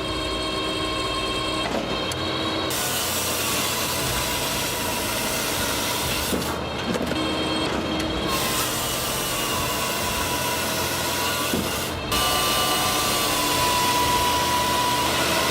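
Small engine-driven firewood processor running as it cuts and splits logs, a steady mechanical noise. The sound changes abruptly a few times, most clearly about twelve seconds in, where it becomes a little louder.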